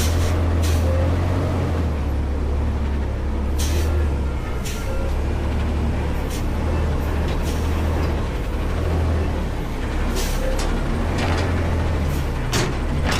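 Front-load garbage truck's diesel engine running steadily, with several short hisses of released air.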